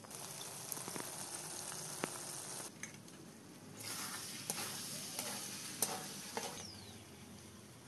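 Chicken pieces sizzling in hot oil in a metal kadai, with a metal spatula scraping and clicking against the pan as they are stirred. The sizzle drops for about a second, three seconds in, then comes back.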